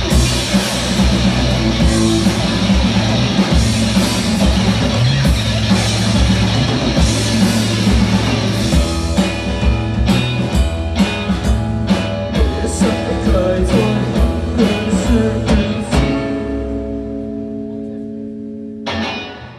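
Rock band playing live with electric guitars and drum kit. About halfway in the band switches to a run of hard, evenly spaced accented hits. A held chord then rings out and fades, with one last hit just before the end, the close of the song.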